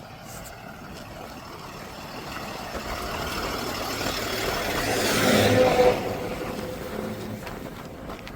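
A road vehicle passing by: its sound builds for about five seconds, is loudest a little past halfway through, then fades.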